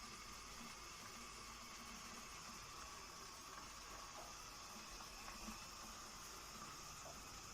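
Faint steady hiss, even throughout with no distinct events.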